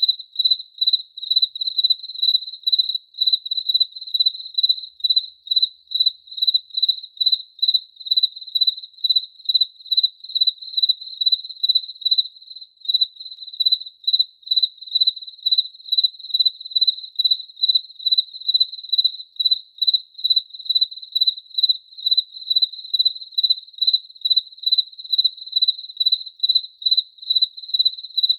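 A cricket chirping steadily, a single high-pitched note repeated evenly at about two chirps a second.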